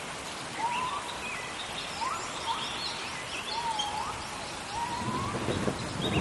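Rainforest ambience: a steady hiss of rain under several birds calling, with rising and sliding whistles and a quick run of high chirps in the middle. A low rumble of thunder starts building near the end.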